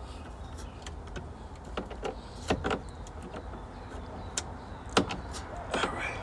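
Scattered clicks, knocks and rustling from hands working on the sensor wiring inside a heat pump cabinet, over a steady low rumble; two sharper knocks stand out, about two and a half seconds in and again near five seconds.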